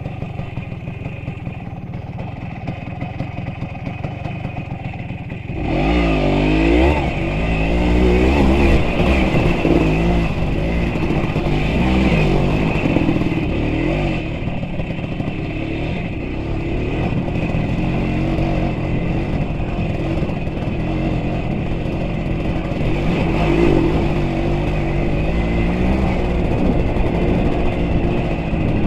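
Small vehicle engine running steadily, then revved harder about five and a half seconds in, its pitch rising and falling repeatedly as it works under load.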